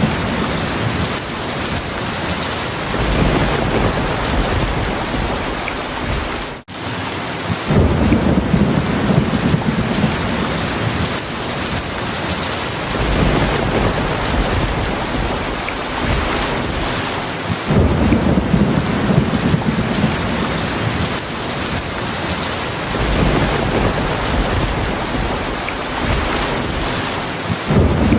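Heavy rain falling steadily, with low rolls of thunder swelling and fading several times. The sound cuts out for an instant about a third of the way in.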